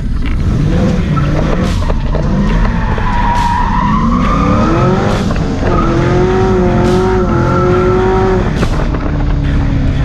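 LQ4 6.0-litre V8 in a 1981 Camaro Z28, heard from inside the cabin: the revs climb for a few seconds, drop at a gear change about five seconds in, then hold steady before easing off near the end.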